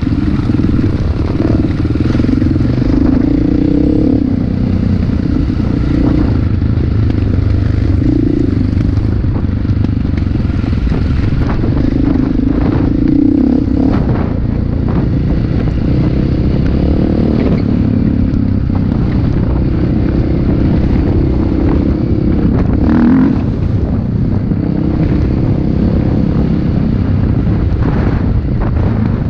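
Motocross motorcycle engines running hard, their pitch rising and falling every second or two over a continuous low rumble.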